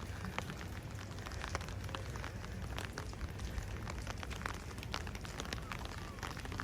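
Steady rain with many individual drops ticking sharply on a close surface.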